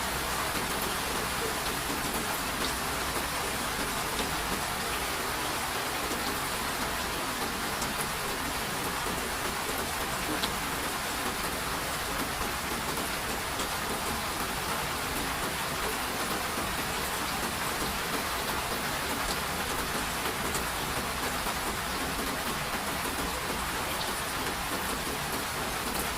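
Steady rain falling, an even hiss with occasional distinct drops.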